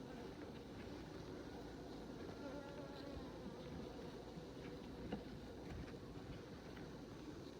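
Honey bees buzzing in a faint, steady, wavering hum around an open hive, muffled inside a bee-suit pocket. A light click about five seconds in.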